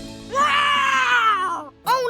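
A high-pitched cartoon character's voice gives one long, slowly falling cry over background music.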